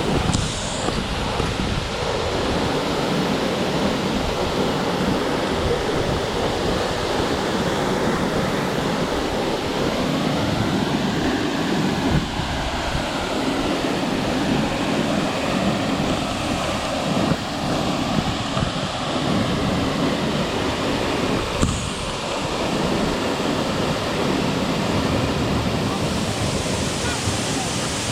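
Steady, even rushing of the Ampola waterfall, a continuous wash of falling water.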